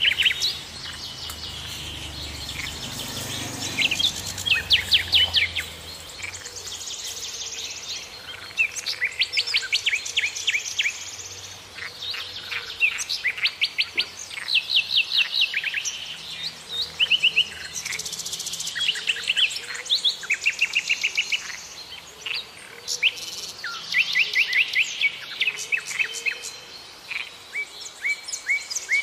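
Small birds chirping and trilling: quick runs of short, high chirps, repeated every second or two, some runs several notes long.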